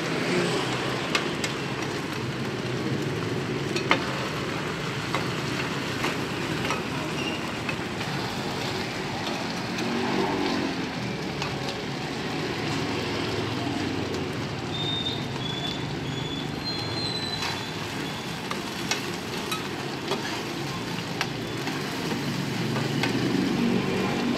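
Cubes of fried rice-flour cake (bột chiên) sizzling in oil on a wide flat pan, with a steady hiss and a metal spatula clicking and scraping on the pan now and then.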